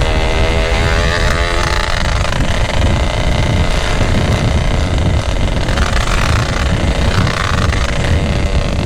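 Suzuki RX King two-stroke single-cylinder motorcycle with a GRT18 aftermarket exhaust, running steadily under way.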